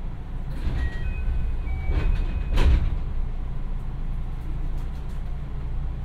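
Running sound of a JR West 221 series electric train, heard from inside the carriage: a steady low rumble from the wheels and track. A few brief high squeals come in the first seconds, and the rumble swells loudest about two and a half seconds in.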